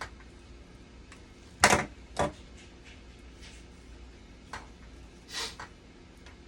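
A few sharp knocks and clatters of objects being handled: two loud ones about a second and a half in, half a second apart, then softer ones near the end.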